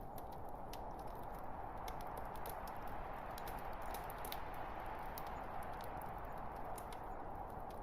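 Wood fire burning in a fireplace: a steady rushing hiss of flame with irregular sharp crackles and pops from the burning logs.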